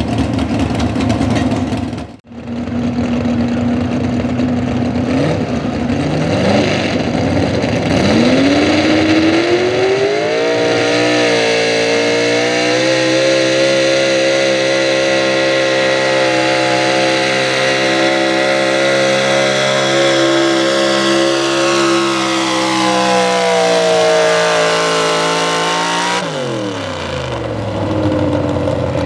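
Big-block 4x4 pulling truck's engine running at a lower steady pitch, then revving up hard to full throttle and holding high for about ten seconds. The pitch then sags over several seconds before dropping off sharply near the end.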